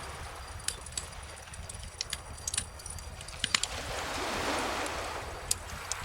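Wood bonfire crackling with scattered sharp pops, a quick cluster of them about halfway through, over gentle ocean waves washing in; one wave swells and fades near the end.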